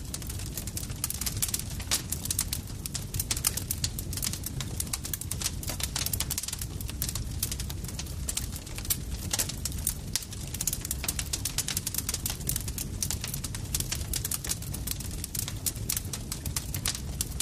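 Campfire crackling: dense, irregular pops and snaps of burning wood over a steady low rumble of the flames.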